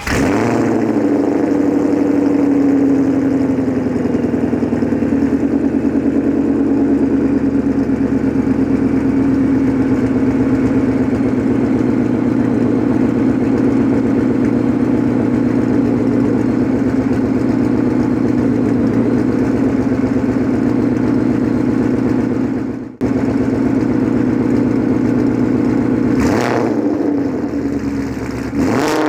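Supercharged 2014 Ford Mustang GT 5.0 V8 through Corsa long-tube headers, X-pipe, over-axle pipes and Corsa Xtreme quad tips. It fires up and settles into a loud, steady idle, then is blipped twice in quick revs near the end.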